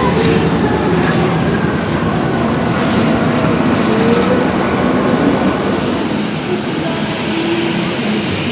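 Loud, steady noise of jet engines, with a faint shifting whine above the rumble.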